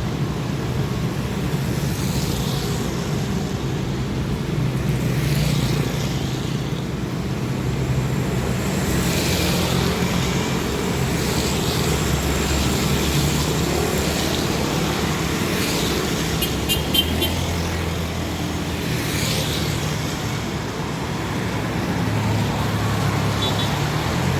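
Road traffic: a steady low engine rumble, with vehicles passing by every few seconds. A brief run of short high beeps comes about two-thirds of the way through.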